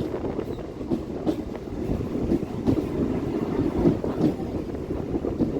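Local passenger train running along the track, a steady rumble of wheels and coach with a few faint clicks.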